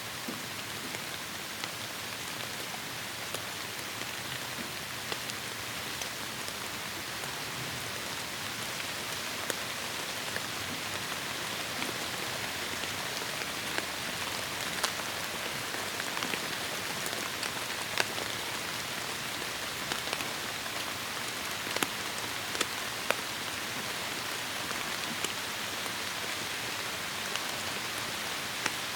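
Heavy rain falling steadily on forest foliage, an even hiss with scattered sharp drops hitting close by.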